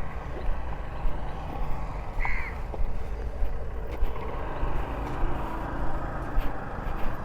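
Steady low outdoor rumble, with one short bird call about two seconds in.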